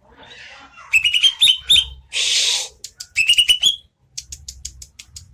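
Cucak ijo (green leafbird) singing: quick runs of sharp rising chirps, split by a harsh hissing burst, then a string of thin high ticks near the end.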